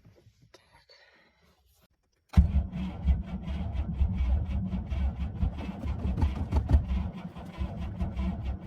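A GAZ 21 Volga's starter motor cranking its four-cylinder engine, which starts suddenly about two seconds in and turns over in a fast, even rhythm without firing. This is the first start attempt after years of standing.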